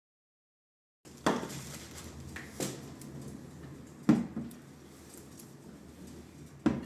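About a second of dead silence, then four light knocks and clacks of objects being handled over faint room tone.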